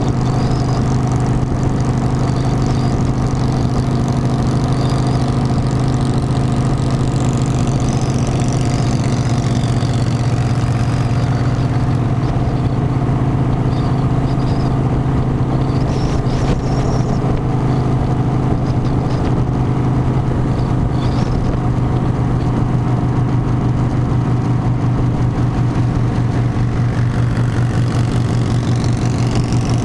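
Harley-Davidson motorcycle's V-twin engine running steadily at an even pitch, with no change in speed.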